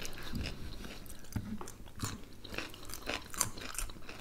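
Close-up chewing with irregular crisp crunches: bites of fresh cucumber being chewed.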